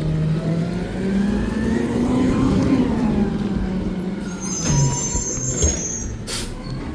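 Garbage truck's diesel engine revving up and settling back down, with a high squeal from about four seconds in and a brief hiss near the end.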